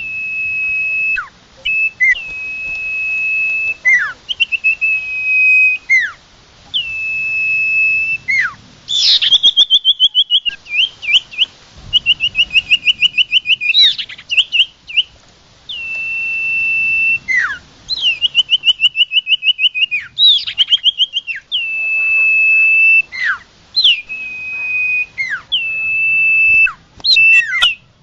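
A sirtu songbird singing vigorously: long steady whistled notes, each broken by a quick downward-sliding note, alternating with fast trills of rapid repeated notes several times.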